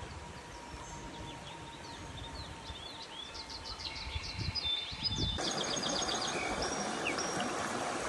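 Small birds chirping in quick runs of short, high, sweeping notes over a steady rushing background. The background becomes suddenly louder a little after five seconds in.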